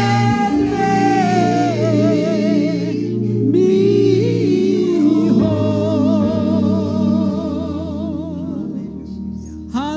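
Gospel music: a singer holds long, wavering notes with heavy vibrato over sustained chords, with a brief break about three seconds in and a new phrase starting near the end.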